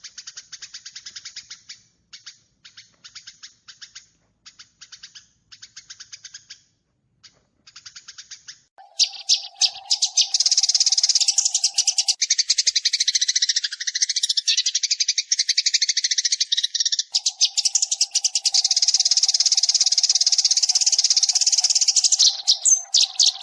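Recorded sparrow calls used as a trapping lure. For about nine seconds there are runs of quick, short chirps with brief gaps between them. Then comes a much louder, dense, unbroken chattering of chirps, which cuts off suddenly at the end.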